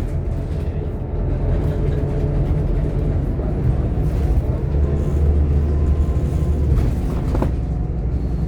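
Inside a Scania K230UB OmniLink bus on the move: its diesel engine and drivetrain run with a steady low rumble. The rumble swells from about five seconds in, as if pulling harder, and there is a faint rising whine and a short sharp knock near the end.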